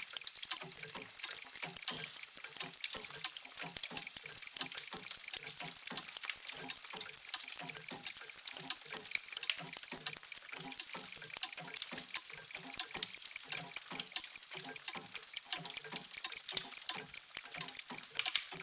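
Many mechanical clocks ticking at once: a steady, dense clatter of overlapping ticks, with deeper tocks mixed among the sharper ticks.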